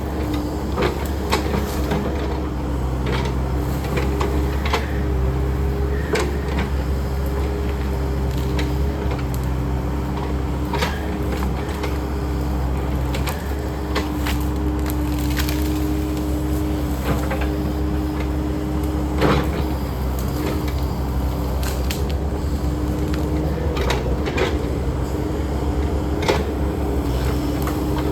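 Takeuchi machine's diesel engine running steadily with a constant hum, over repeated sharp cracks and snaps of wood as trees and roots break during land clearing.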